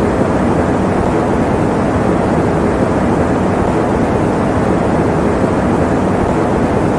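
Fan noise: a steady, even whoosh of moving air, weighted low with little hiss, used as sleep white noise.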